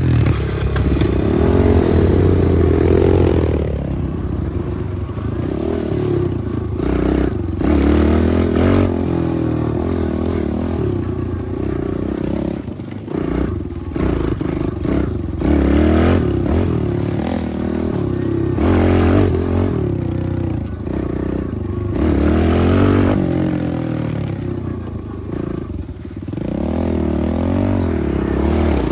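Pit bike engine revving up and easing off again and again as the bike is ridden, with clatter and knocks mixed in.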